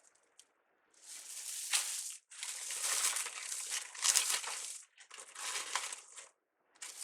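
Crinkly wreath ribbon being handled and bent, crinkling in three spells of a second or two each with short pauses between.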